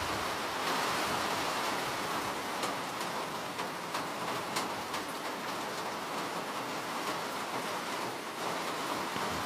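Steady rain: an even hiss of falling rain with a few sharper drop ticks in the middle.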